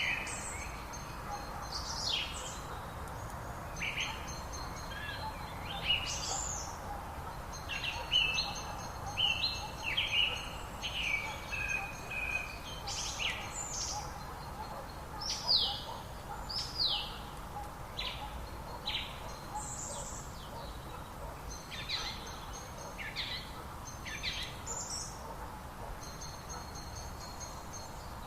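Several wild birds singing together: a busy run of short chirps and quick downward-sliding whistles over a steady outdoor hiss.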